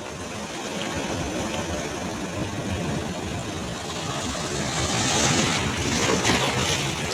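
Sea waves on a beach: a steady rumble of surf swells into a louder hissing wash as a wave breaks, about five seconds in.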